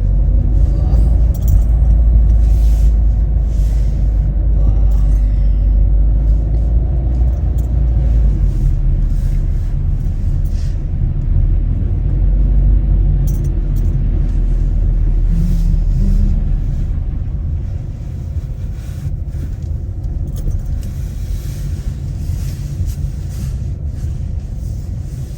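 Steady low rumble of a car's road and engine noise heard from inside the moving car, easing slightly about two-thirds of the way through.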